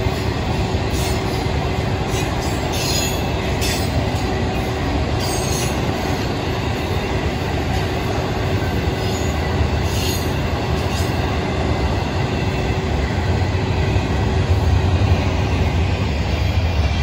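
Freight train's intermodal cars rolling past: a steady rumble of steel wheels on rail, with a few short high-pitched wheel squeals in the first several seconds and again about ten seconds in. The rumble grows louder near the end.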